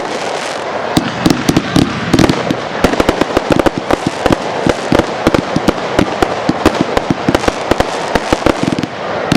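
Fireworks display with a rapid, dense string of bangs, several a second, over a continuous crackling hiss.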